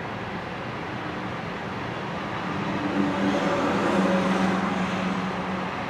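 Loaded coal hopper cars of a freight train rolling past on the rails, a steady rumble that swells with a low hum about three seconds in before easing off.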